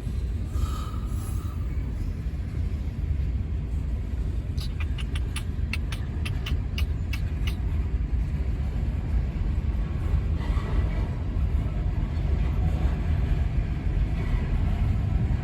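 Freight train cars rolling past with a steady low rumble. A quick run of sharp clicks comes a few seconds in.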